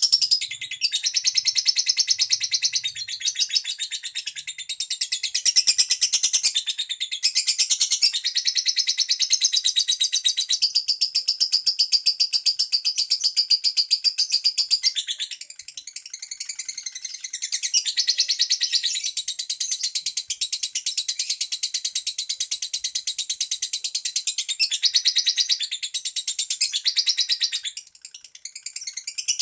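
Female lovebird chattering in a long, rapid, almost unbroken stream of shrill chirps, with a brief pause about halfway through and another near the end.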